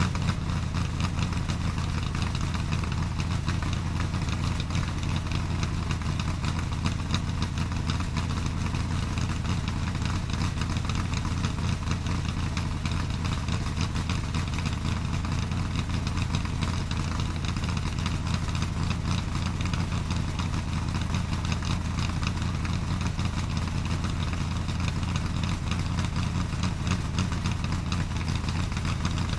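A vehicle engine idling steadily, with an even, low running note that does not change.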